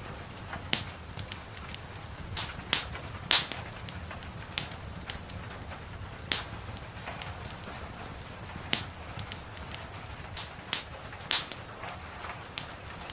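Wood fire crackling in a fireplace: sharp, irregular snaps and pops, several a second with a few louder ones, over a steady low rumble and a soft hiss of gentle rain.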